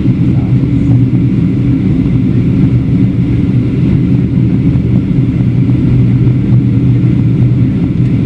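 Steady low drone inside the cabin of a Boeing 737-700 during descent, from its two CFM56-7B engines and the air rushing past the fuselage.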